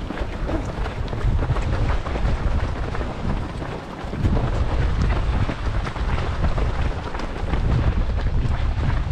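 Wind buffeting the microphone: a heavy, gusting low rumble with rough hiss above it.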